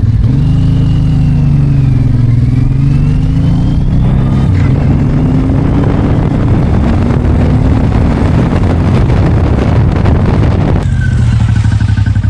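Suzuki M109R's 1800 cc V-twin engine under way on a test ride, its pitch rising and falling as it accelerates and shifts. The engine has just been rebuilt after its valves struck the pistons, and it is running normally. About eleven seconds in it settles into a steadier, lower note.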